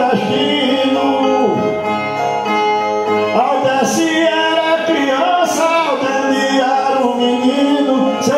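A repentista singing a verse of cantoria to a strummed viola, the man's voice drawing out long held notes over the instrument.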